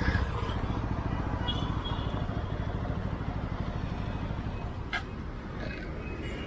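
TVS Apache RTR 200 4V's single-cylinder engine idling steadily, heard up close, with one sharp click about five seconds in.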